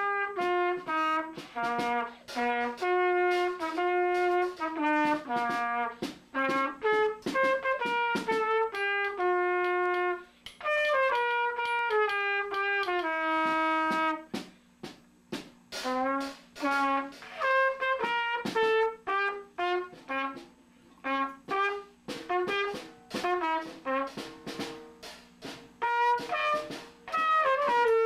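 A brass instrument playing a tune of short, separately tongued notes stepping up and down, with a few longer held notes and brief gaps between phrases.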